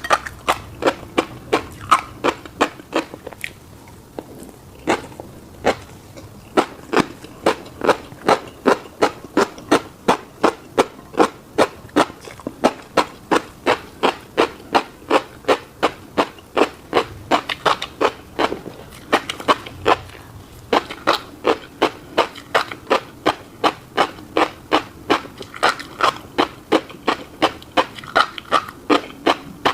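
Close-miked mouth chewing a bite of fish roe and rice, wet smacking clicks in a steady rhythm of about three a second, with short pauses a few seconds in and about two thirds through.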